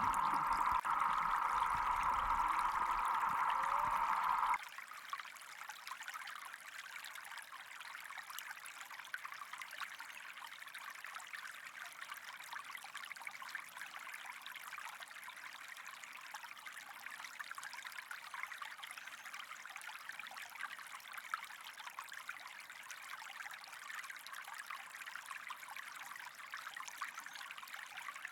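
Water: a loud, even rushing that cuts off suddenly about four and a half seconds in, followed by a softer, steady fizzing trickle with faint crackles.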